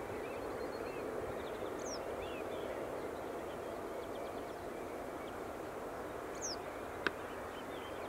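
Open-country ambience: scattered short, high bird chirps and calls over a steady background hiss, with a single sharp click about seven seconds in.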